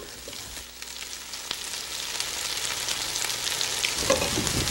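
Ginger-garlic masala base with freshly added coriander sizzling in hot oil in a pan, crackling, the sizzle growing steadily louder.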